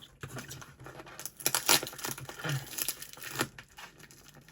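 Parcel packaging crinkling and tape tearing in irregular rustling bursts as it is picked open by hand, loudest about a second and a half in.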